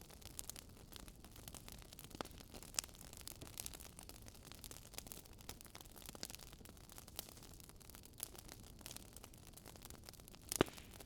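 Wood fire crackling: a soft hiss with scattered small sharp pops and one louder pop near the end.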